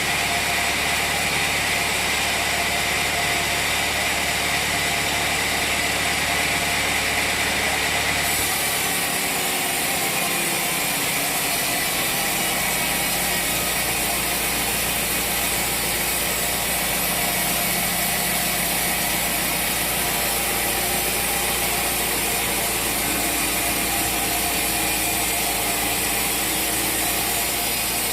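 Sawmill machinery running steadily, with a continuous mechanical din. The sound changes abruptly about eight seconds in, then carries on steadily.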